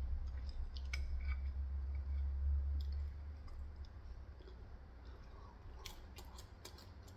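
Eating sounds: scattered light clicks of utensils or food handling and some chewing, with a low rumble for the first three seconds.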